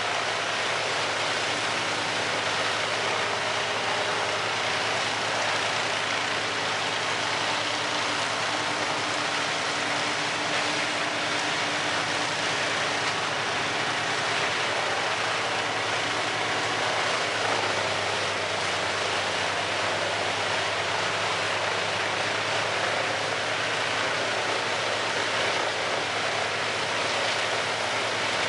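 Large industrial wood chipper running steadily: a constant engine drone under an even rushing noise, with no pauses or changes.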